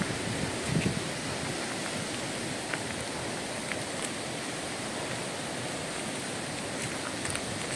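Steady forest ambience: an even rushing hiss like falling rain or running water. A soft low thump comes about a second in, and a few faint ticks follow.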